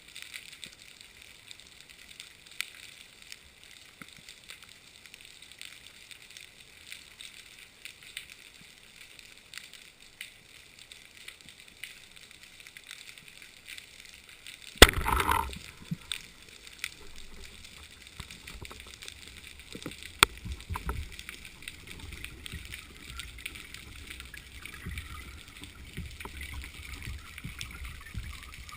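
Water gurgling steadily, with one loud knock about halfway through followed by a second of noise, and a sharp click a few seconds later.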